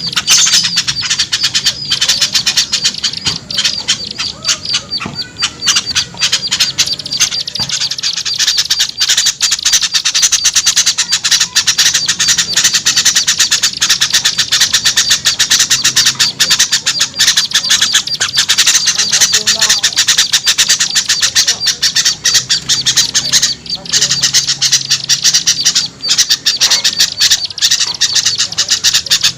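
A bird-lure (pikat) recording of many small birds calling at once: a dense, continuous, noisy chatter of rapid squawks and chirps with no break.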